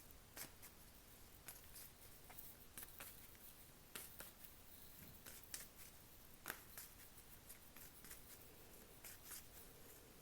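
Faint, irregular soft ticks and flicks of a deck of oracle cards being shuffled by hand.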